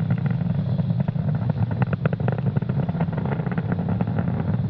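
Falcon 9 first stage's nine Merlin engines firing during ascent: a steady low rumble with dense crackle on top.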